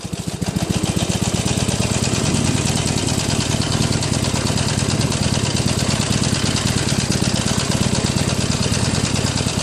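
Harley-Davidson Iron 883's air-cooled V-twin engine starting up and then idling steadily with an even, rapid pulse.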